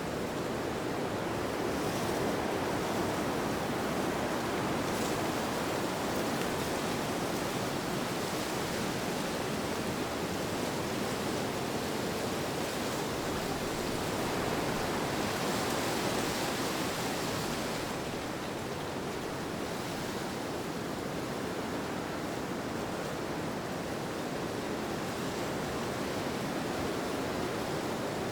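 Wind blowing steadily as an even rushing noise, swelling a little brighter and hissier for a few seconds past the middle.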